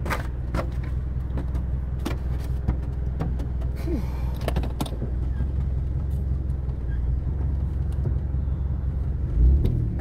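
Steady low hum of a car's running engine heard inside the cabin, with a few light clicks and one low thump near the end.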